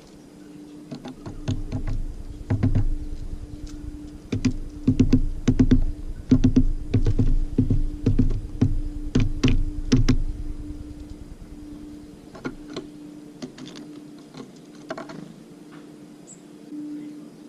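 Tits at a bird feeder pecking and hammering at seeds, making a fast, irregular run of sharp taps on the feeder that thins out after about ten seconds. A steady low hum runs underneath.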